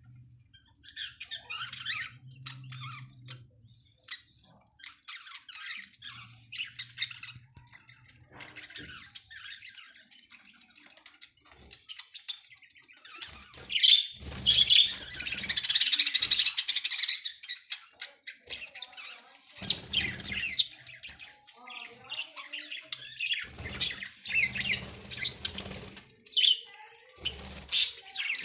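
Budgerigars chirping and chattering in intermittent bursts of short, quick calls, busiest and loudest in a long burst about halfway through.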